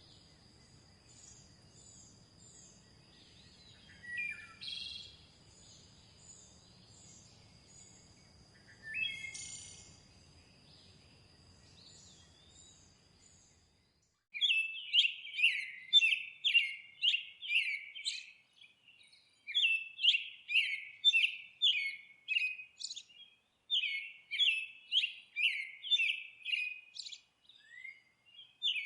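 Songbirds singing. For the first half, a few faint calls sound over a steady high thin tone and a low background rumble. About halfway through, the sound switches abruptly to loud, rapid runs of repeated chirps in phrases a few seconds long, with short pauses between them.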